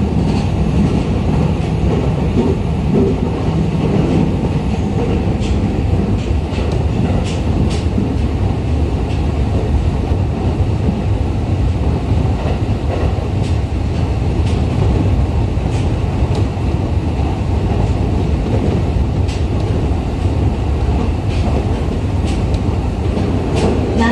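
JR East E501 series electric commuter train running, heard from inside the passenger car: a steady, loud rumble from the wheels and rails, with occasional light clicks.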